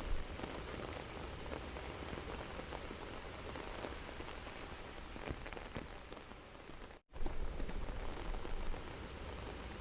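Steady rain falling on foliage, an even hiss dotted with many small drop ticks. About seven seconds in, the sound cuts out completely for a split second and then comes back.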